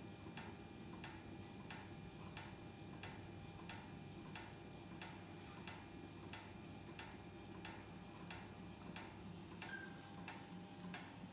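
Small Heinrici hot air (Stirling-type) engine running, its mechanism ticking in a steady, even rhythm of light clicks, a few a second, over a low running hum.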